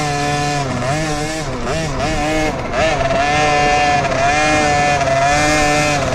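Dirt bike engine revving up and down in quick swings, then held at a fairly steady high pitch from about three seconds in.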